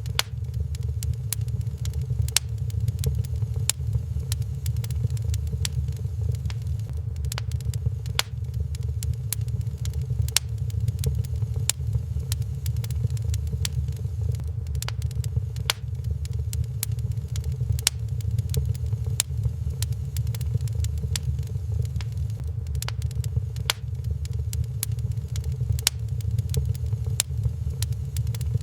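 Wood fire crackling in a fireplace, with frequent irregular sharp pops over a steady low rumble.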